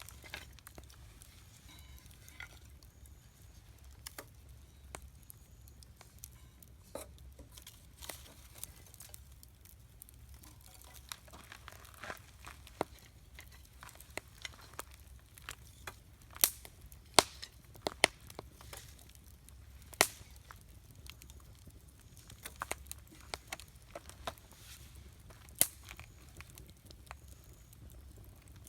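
Wood campfire crackling, with scattered sharp pops at irregular intervals; the loudest pops cluster in the middle and one comes near the end.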